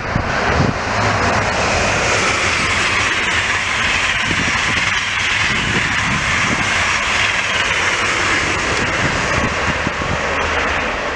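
ICE high-speed train passing at speed: a steady rushing noise of wheels on rails and air along the train, building in the first second and easing slightly near the end.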